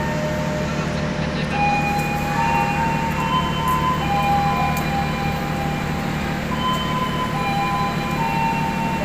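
Passenger train at a station: a steady low engine hum, with several high held tones that overlap and shift to new pitches every second or so.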